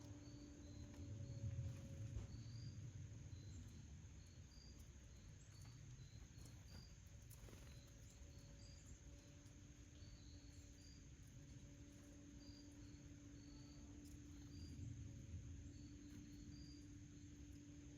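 Near silence: faint, brief high-pitched chirps scattered irregularly over a steady high tone and a low hum.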